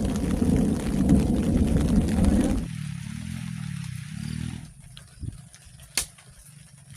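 A loud, low rumble of thunder that breaks off suddenly about two and a half seconds in. A fainter low, wavering pitched sound follows, then a few sharp clicks near the end.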